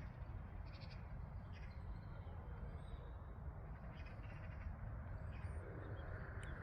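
Steady low background rumble with scattered faint, short bird calls.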